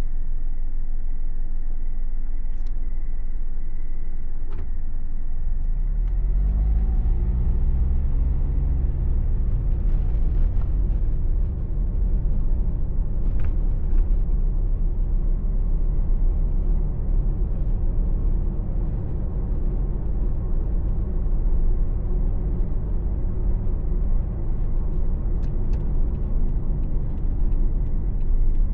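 Car engine and road noise heard from inside the cabin: a low steady running sound, then about six seconds in the engine note rises as the car accelerates, settling into steady driving with a low tyre and road rumble.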